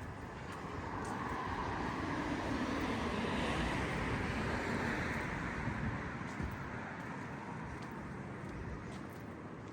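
A car driving past on the street, its tyre and engine noise swelling to a peak a few seconds in and then fading away.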